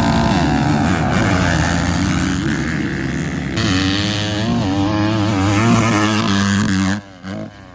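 Motocross dirt bike engines running hard on the track, their revs repeatedly climbing and falling. The sound cuts off abruptly near the end.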